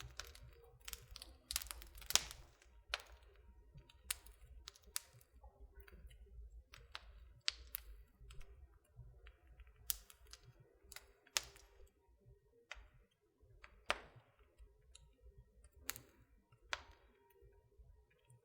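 Wood fire crackling in a fireplace: irregular sharp pops and snaps, roughly one a second, over a faint low rumble of the burning logs.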